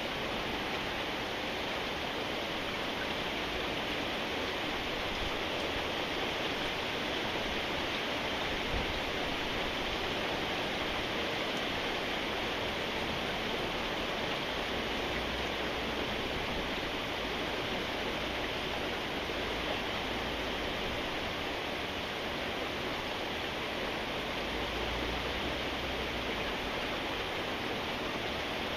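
Steady rain falling: an even hiss that holds the same level throughout.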